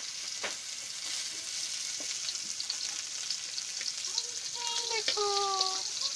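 Oil sizzling in a karahi as a metal spatula stirs small chopped pieces frying in it, with a few sharp scrapes of the spatula against the pan. A few short pitched calls sound in the background about four to six seconds in.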